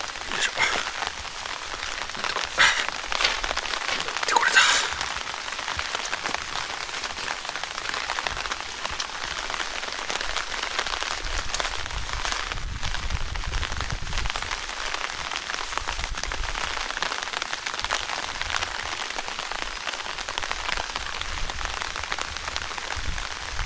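Light rain hissing steadily on leaves and grass. In the first few seconds, leaves and stems brush loudly a few times as someone pushes through dense undergrowth.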